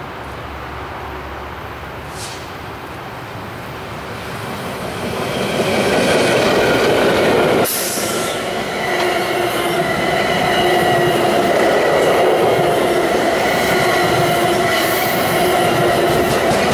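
Diesel-hauled commuter train, led by an MPI MP20B-3 locomotive, approaching and passing close by. The rumble builds and is loud from about six seconds in, as the multilevel coaches roll past with wheel noise and steady squealing tones.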